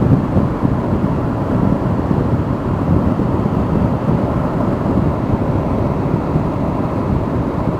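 Motorcycle riding at speed: a steady, heavy rumble of wind buffeting the microphone, mixed with engine and road noise.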